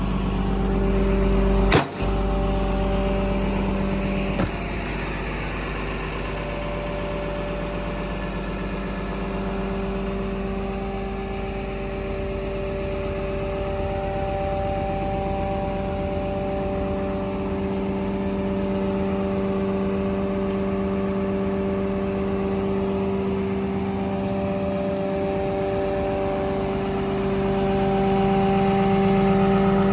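Diesel engine of a Komatsu D61PXi-24 bulldozer running steadily at a constant speed. There is a sharp click about two seconds in and a fainter one a couple of seconds later, and the engine gets a little louder near the end.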